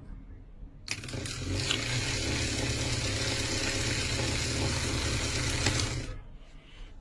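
A small electric motor runs steadily for about five seconds, starting about a second in and cutting out near the end, with a low hum under a whirring hiss.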